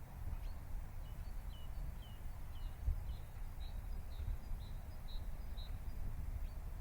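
A bird calling a run of short high chirps, about two a second, the first few sliding down in pitch, over a steady low rumbling outdoor noise.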